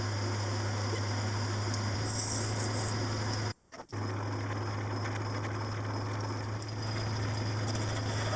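Workshop machine tool running steadily with a strong low hum and a thin high whine, cut off briefly about three and a half seconds in before it resumes.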